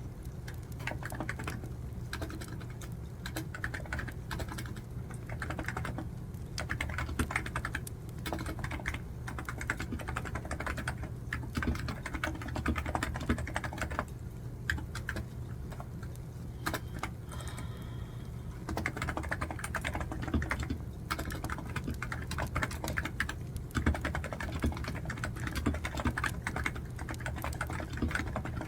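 Typing on a computer keyboard in runs of keystrokes, thinning out for a few seconds about halfway through, over a steady low wood-fire ambience.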